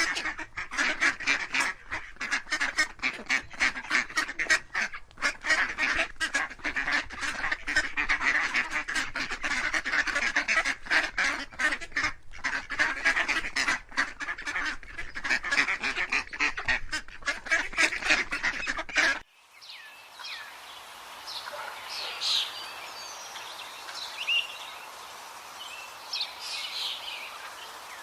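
A dense flock of farm waterfowl calling continuously, many overlapping calls at once. About two-thirds of the way through it cuts off suddenly to a quieter outdoor background with scattered small bird chirps.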